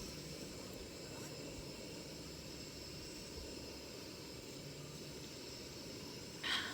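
Portable gas camp stove burner running with a steady hiss under a pot that is heating toward a boil. A short clink or rattle comes near the end.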